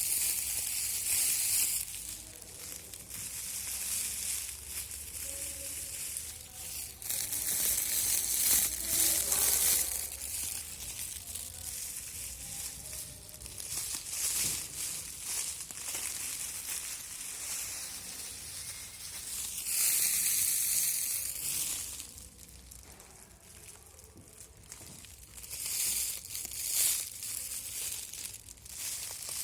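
Crinkly craft material being crumpled and handled, in rustling bursts of one to three seconds with quieter handling between them.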